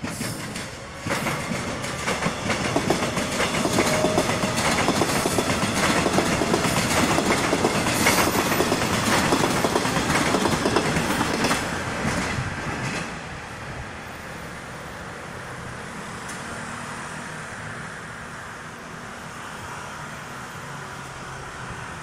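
Taiwan Railways local electric multiple-unit train passing close by, its wheels clattering rhythmically over the rail joints. The clatter builds quickly about a second in, stays loud, then drops away about 13 seconds in and fades as the train recedes.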